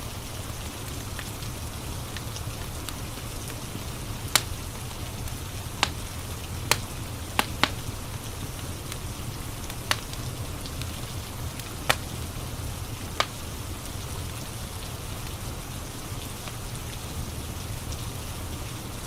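Steady rain with the crackle of a wood fire: a constant hiss and low rumble, broken by about eight sharp, irregular pops from the burning logs, clustered in the middle of the stretch.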